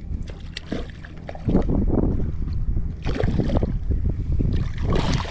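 Wind gusting on the microphone in loud rough surges from about a second and a half in, over a steady low hum.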